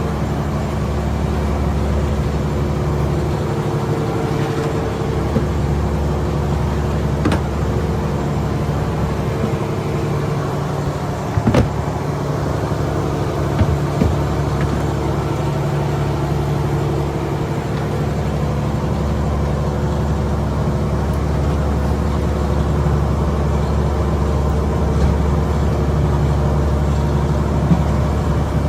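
Fishing boat's engine running at a steady speed, with a few short knocks about halfway through.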